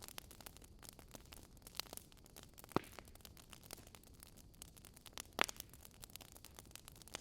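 Wood fire crackling in a fireplace, a steady patter of small ticks with two louder pops, one a little under 3 seconds in and one about 5 seconds in.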